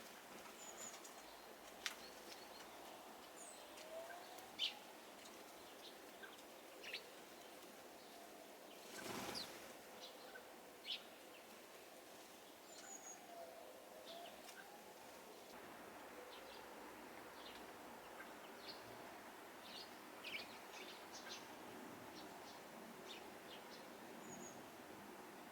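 Quiet outdoor ambience with faint, scattered short chirps and calls from small birds, and a brief whoosh about nine seconds in.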